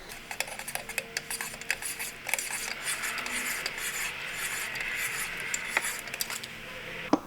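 Metal hand tools and small metal parts clinking and scraping, with scattered sharp clicks, a stretch of rubbing through the middle and a sharper knock near the end.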